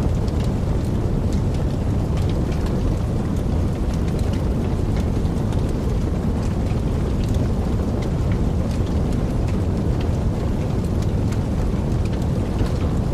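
Wood fire crackling in a fireplace: a steady low rumble of flames with many small, scattered pops and crackles.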